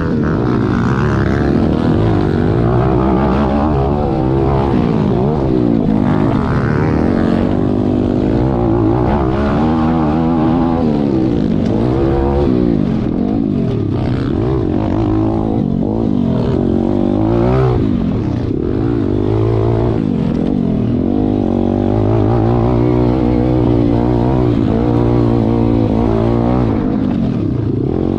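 Several pit bike engines revving hard, their overlapping pitches climbing and dropping again and again as the riders accelerate and shift through the gears.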